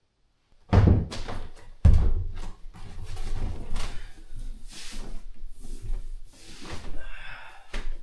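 A series of thumps and knocks: two loud ones about a second apart near the start, then many lighter knocks and rustling bursts, with another sharp knock near the end.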